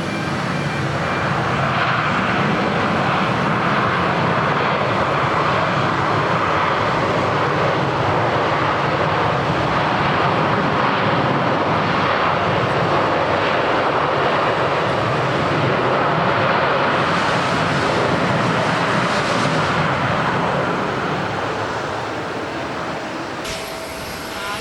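Boeing 787-10 airliner's jet engines on landing: a loud, steady roar that swells in at the start and fades over the last few seconds.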